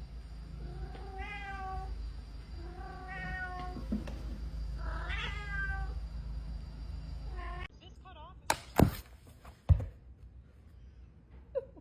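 A domestic cat meowing three times, long drawn-out meows over a steady low hum. Then two loud thuds about a second apart.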